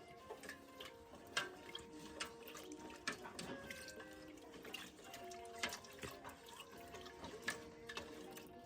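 Pot of gumbo base bubbling on the stove, with irregular small pops, under soft background music.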